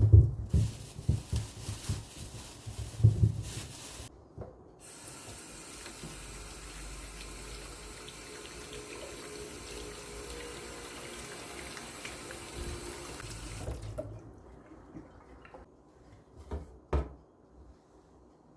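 Water from a tap running into a sink. Irregular splashing and knocks come first. After a short break there is a steady stream for about nine seconds, which is then turned off, followed by a few light knocks.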